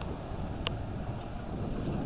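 Wind buffeting the microphone, a low rumble, with one sharp click about two-thirds of a second in.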